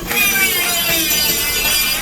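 A power tool working metal: a steady rasping, cutting sound with wavering whining tones over it.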